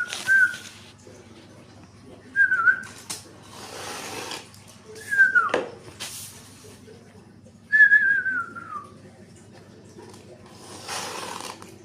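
Songbirds giving short whistled phrases, one a quick falling slide and the last a longer falling warble, alternating with breathy hissing bursts.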